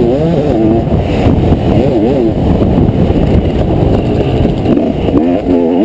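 Motocross bike engine running under load, its pitch rising and falling over and over as the throttle is opened and shut along the track.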